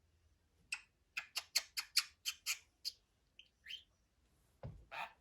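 Budgerigar giving a fast run of about nine sharp, harsh squawking chirps, some five a second, with a few fainter chirps after. A louder single sound with a low thud comes near the end.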